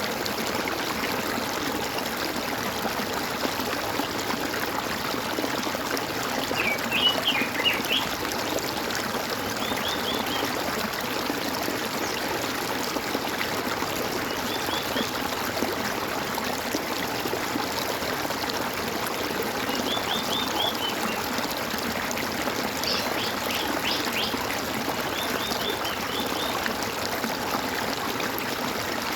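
Water gurgling and trickling steadily, with short bursts of bird chirps several times over it.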